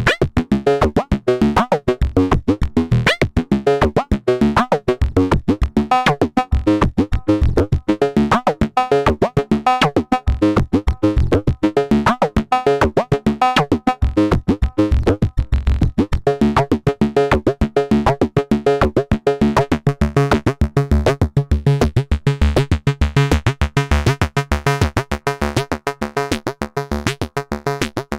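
Modular synthesizer sequence: a Make Noise DPO oscillator playing short enveloped notes stepped by a René sequencer, with a delay, several notes a second. About halfway through, the pattern settles onto a steadier repeated lower pitch.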